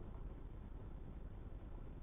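Faint, steady low rumble of a big rig truck driving on the highway.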